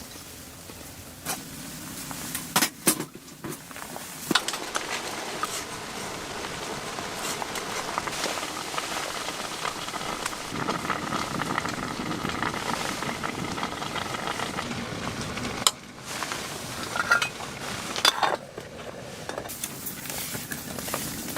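Sizzling and crackling from cooking on a tent wood stove, a steady hiss broken by occasional sharp clicks and knocks.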